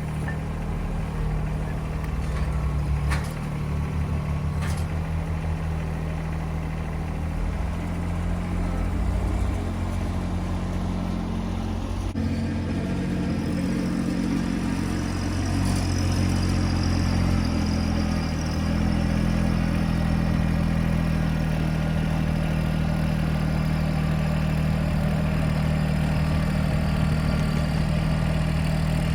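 TYM T264 compact tractor's diesel engine running steadily, its pitch changing a couple of times as it works, with two sharp knocks near the start.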